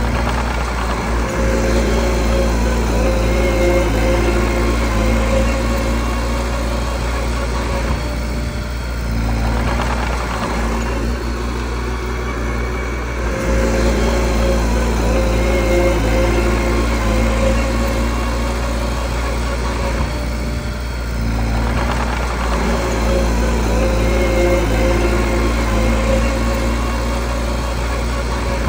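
Small bulldozer's diesel engine running steadily, its note changing twice as the load shifts while it works.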